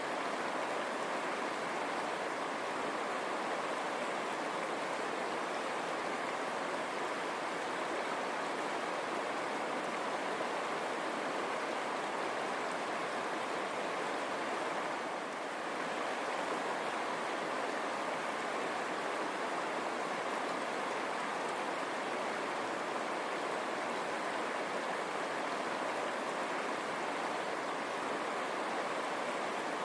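River water running and rushing over rocks, a steady even rush.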